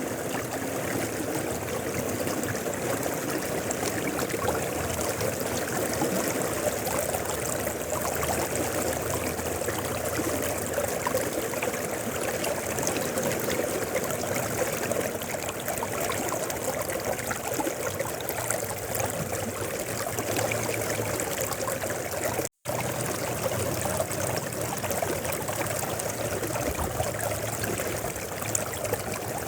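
A river flowing steadily, an even rush and babble of water, broken once about two-thirds through by a split-second cut to silence.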